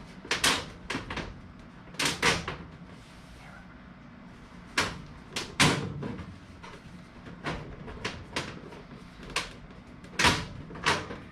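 Irregular knocks and clunks of ductwork and the inline booster fan being handled and pushed into place, a dozen or so sharp hits at uneven intervals over a low background hum.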